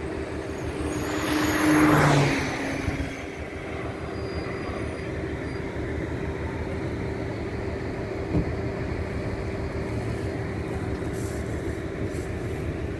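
Datuk Belambangan passenger train's coaches rolling along the track, a steady rumble with a constant tone, swelling to a louder rush about two seconds in.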